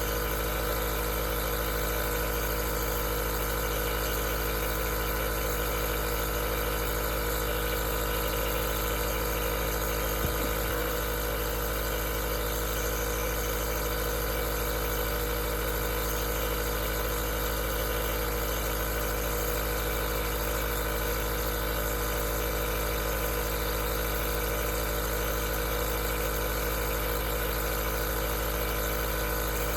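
Aerosol nebulizer's compressor running steadily: an even mechanical hum made of many steady tones, with a hiss of air over it. A faint brief knock sounds about ten seconds in.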